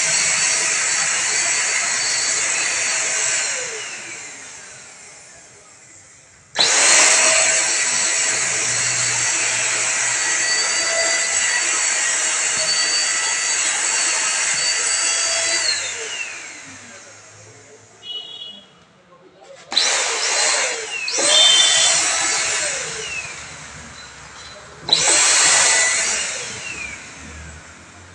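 800-watt motor of an Agaro Real Plus handheld vacuum cleaner running with a steady high whine, switched off and on repeatedly: a long run of about nine seconds, then three short bursts of about a second each near the end, the pitch falling away as the motor spins down after each switch-off.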